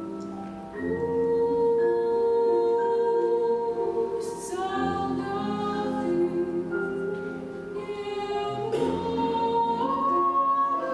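Music: a song with long held sung notes and accompaniment.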